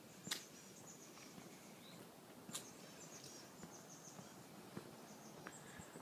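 Near silence with faint, high bird chirps, broken by two sharp clicks, one just after the start and one about two and a half seconds in.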